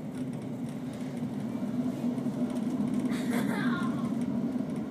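Passenger train running at speed, heard from inside the carriage: a steady low rumble. About three seconds in, a short higher sound falls in pitch over it.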